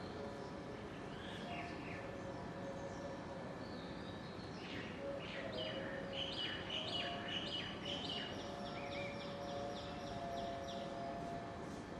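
Birds chirping and calling over steady outdoor background noise, with a quick series of short repeated high notes in the second half.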